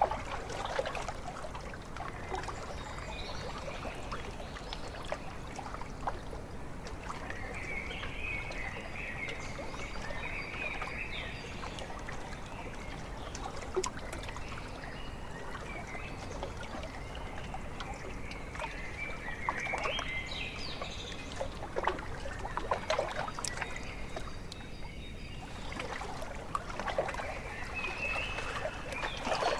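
Small lake waves lapping and splashing irregularly against the shore, with birds calling now and then over the water.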